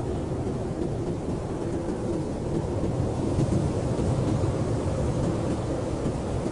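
Blizzard wind blowing steadily: a deep, even rush with most of its weight low and little hiss on top.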